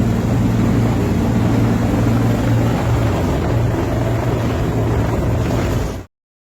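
Rescue helicopter hovering, its rotor and turbine making a steady, loud low drone with a fast chop; it cuts off abruptly about six seconds in.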